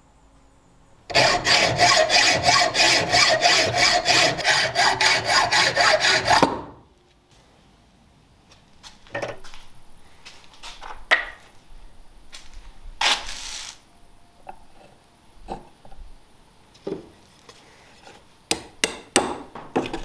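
A hand tool worked back and forth on wood in rapid, even strokes, about four a second, for some five seconds, then stopping. After that come scattered light knocks and scrapes.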